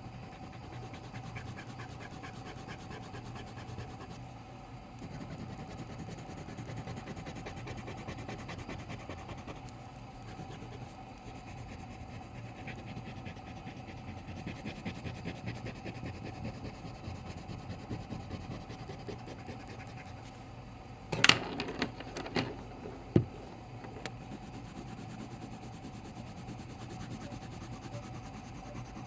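Pen or marker scratching and rubbing on paper while drawing, over a low steady hum. About two-thirds of the way through comes a short cluster of sharp clicks, the loudest sounds here.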